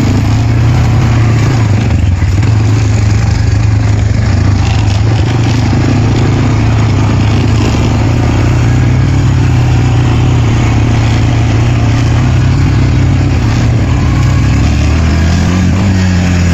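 Honda Recon 250 ATV's single-cylinder four-stroke engine running steadily as the quad rides along a dirt trail, with wind noise on the microphone. The engine note shifts near the end.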